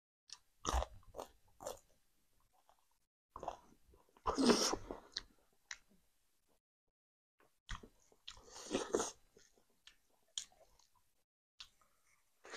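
A person chewing and biting a mouthful of rice and smoked pork close to the microphone, in three main bursts of wet, clicky chewing a few seconds apart, with smaller mouth clicks in between.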